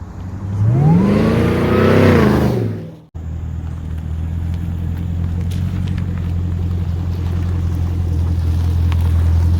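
Straight-piped (muffler-deleted) Chevrolet Camaro ZL1's supercharged V8 exhaust: one rev, pitch climbing then falling back, then after an abrupt cut a steady low drone that slowly grows louder.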